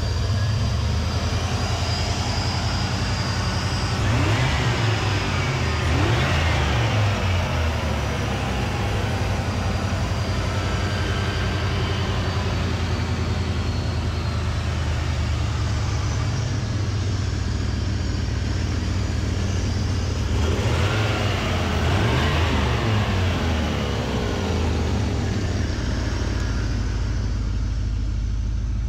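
1986 Chevrolet Camaro IROC-Z's 305 cubic-inch tuned-port-injected V8 idling, revved up and let fall back twice, about four seconds in and again about twenty seconds in.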